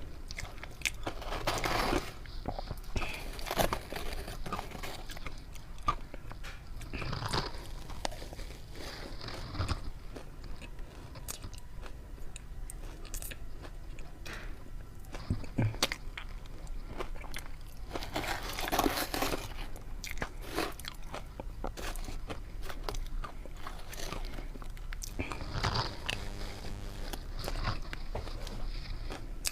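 Close-up sound of ice being bitten and chewed: sharp cracking crunches with smaller crackles and clicks between them, and louder bites several times, about 2, 4, 7, 10, 19 and 26 seconds in.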